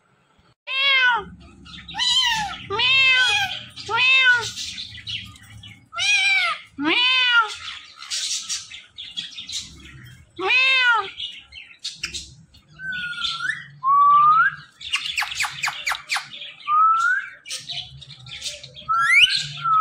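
Indian ringneck parrot calling: a run of loud, arched, meow-like squawks, one every second or so, followed after about twelve seconds by short rising whistles and a quick burst of chatter.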